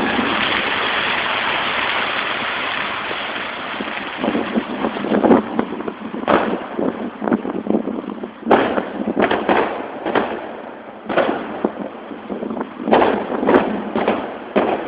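Fireworks display going off. A dense crackling hiss fades over the first few seconds, then comes a quick, irregular run of sharp bangs and pops, several in a row at times.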